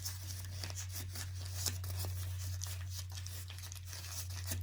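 Newspaper being crumpled and torn by hand: a run of small crackles and rustles, over a steady low hum.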